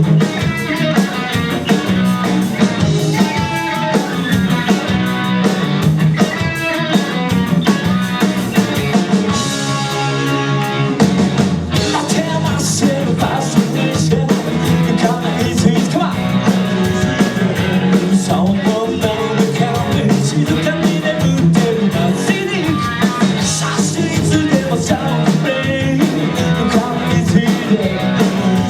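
Live rock band playing a fast song at full volume: electric guitar, bass and drum kit.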